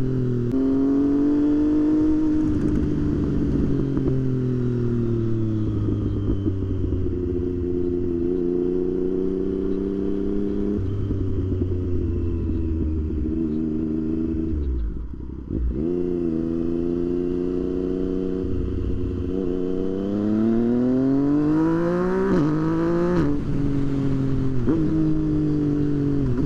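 Motorcycle engine running under way, its pitch sliding down and up with the throttle. It eases off to a brief lull about halfway through, then revs up through quick gear changes near the end.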